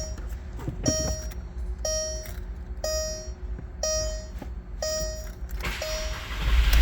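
Dashboard warning chime beeping about once a second with the key on in a 2005 Volkswagen Beetle Turbo. Near the end the cold engine cranks and catches into a low rumble.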